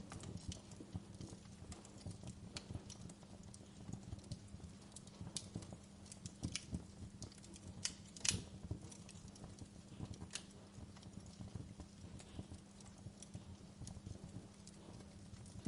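Wood fire in a fireplace crackling: irregular small pops and snaps over a low steady rumble of the flames, with one louder pop about eight seconds in.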